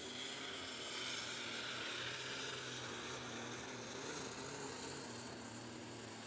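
Light super stock pulling tractor's engine running hard during a pull down the track, heard at a distance as a steady drone.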